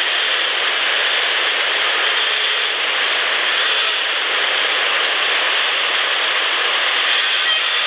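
Steady rushing noise in a boosted outdoor field recording, with distant highway traffic running through it.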